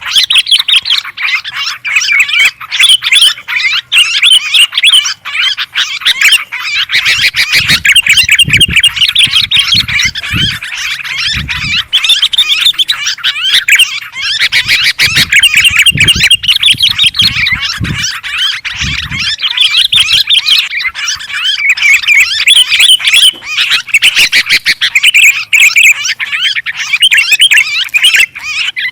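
Dense, agitated chattering and squawking calls of sooty-headed bulbuls (kutilang) and yellow-vented bulbuls (trucukan), the kind of noisy lure recording used to draw in wild birds. A few short low thuds come through between about 7 and 19 seconds in.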